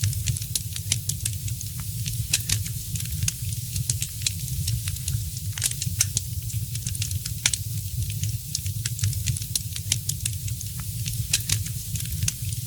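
Wood fire crackling in a fireplace: irregular sharp pops and snaps over a steady low rumble and hiss of the flames.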